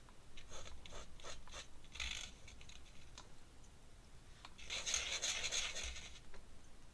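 Light scratching and rubbing on paper, several short scratches followed by a longer rustling scrape about five seconds in.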